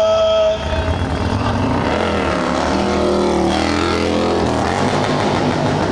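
Motorcycle engine running and revving, its pitch dropping and climbing again midway.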